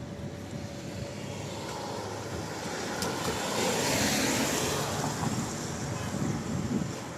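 A car passing on a wet road, its tyre hiss swelling to a peak about four seconds in and then fading, over steady falling rain.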